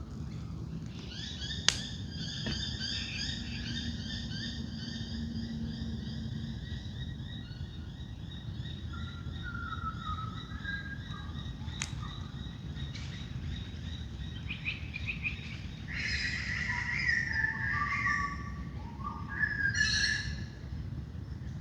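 Wild birds calling in a dawn chorus. A long, even high chirring runs through the first two-thirds, and louder bursts of stepped, falling calls come near the end, over a steady low background rumble.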